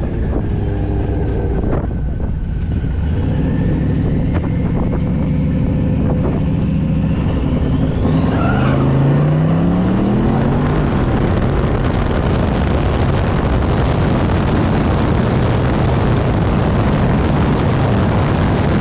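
Twin-turbo 5.3-litre LS V8 in a Fox-body Mustang making a drag-strip pass: running steadily at low revs at first, then launching about eight seconds in, its pitch climbing fast, and pulling hard at full throttle through the rest.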